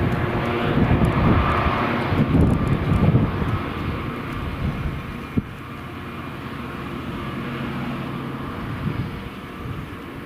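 Freight train passing: the locomotive's engine drone is loudest in the first three or four seconds, then eases to a steadier, quieter rumble as the train runs by, with a single sharp knock about five seconds in.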